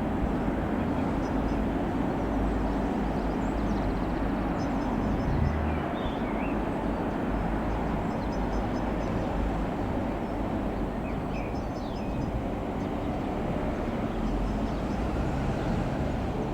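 Single piston engine of an Avid Flyer MK.IV light aircraft droning steadily, mixed with wind buffeting the microphone.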